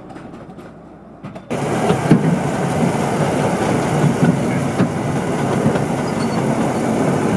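Narrow-gauge mountain tourist train running, heard from aboard one of its open carriages: a steady rumble and clatter of wheels on rail. It comes in suddenly about a second and a half in, after a quieter stretch.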